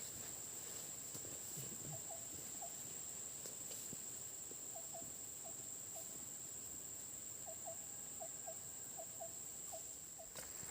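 Faint, steady high-pitched drone of forest insects, such as crickets or cicadas, with short chirps from another animal in pairs and small clusters over it.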